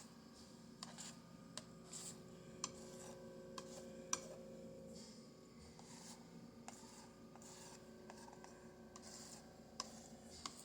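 Faint dabbing and scraping of paint being worked onto a canvas, with scattered small clicks and taps, over a steady low room hum.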